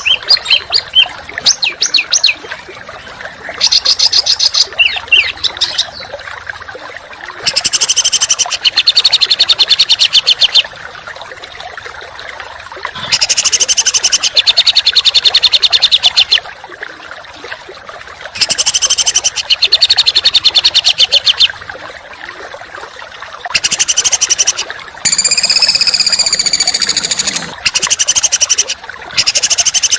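Songbird masteran recording of harsh, rapid-fire rattling trills ('tembakan'), sung in bursts of one to three seconds every few seconds over a steady hiss. About nine seconds from the end, a whistled phrase of rising and falling notes takes their place.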